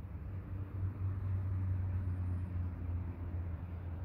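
Approaching train heard as a low, steady rumble, swelling a little about a second in.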